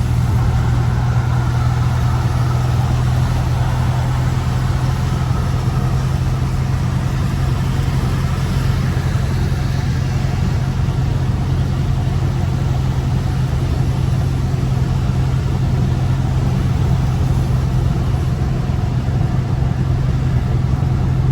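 Dodge Scat Pack's 6.4-litre HEMI V8 running with a steady low drone at cruising speed, heard through an open window, with tyre hiss on a wet road.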